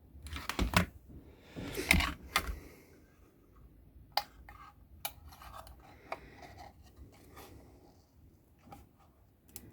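Small clicks, taps and scrapes of components and hand tools being handled on a workbench while fitting parts to a crossover circuit board, loudest in two clusters in the first couple of seconds, then lighter scattered clicks.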